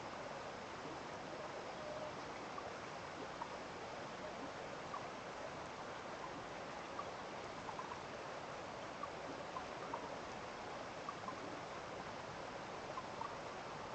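Small stream running steadily, with short faint plinks of water scattered through it.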